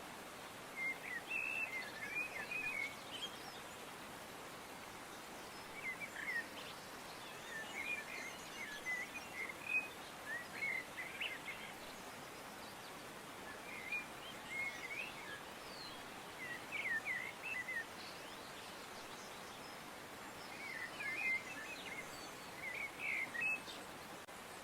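Small birds chirping and twittering in short bouts every few seconds over a steady background hiss.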